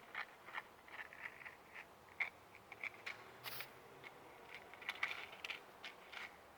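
A match struck on a matchbox: a brief hissing scrape about three and a half seconds in, among many small dry clicks and crackles from handling the box and twigs.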